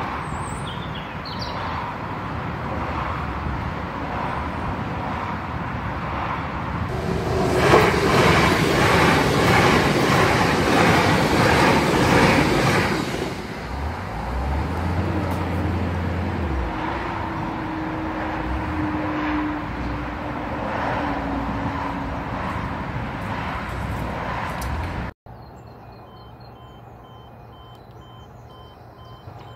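A train passes over a level crossing on an electrified line: a loud rush with a rapid even clatter, lasting about six seconds, over steady background noise. After a sudden cut near the end, a different crossing's two-tone warning alarm sounds faintly while its amber light is lit.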